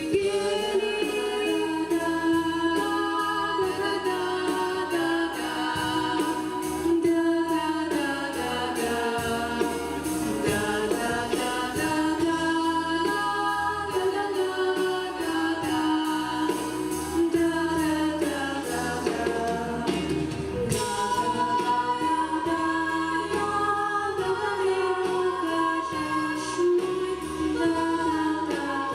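A small group of female voices sings a sad Russian song about birds in harmony, with instrumental accompaniment underneath.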